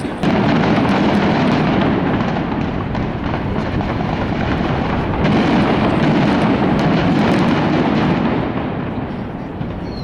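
Fireworks at full barrage: a dense, continuous rumble of overlapping bangs and crackle. It gets louder just after the start and eases off near the end.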